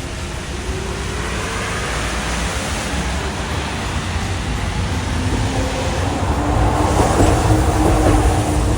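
Hiroshima Electric Railway streetcar approaching on wet track, growing steadily louder. A motor whine rises in pitch over the first few seconds, and a steady hum sets in about halfway through.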